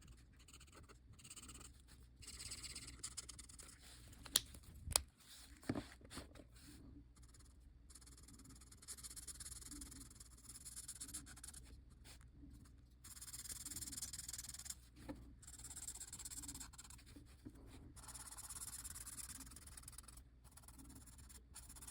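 Drawing strokes on paper: a pen or marker tip rubbing and scratching across the sheet in repeated strokes, with two sharp clicks about four and five seconds in.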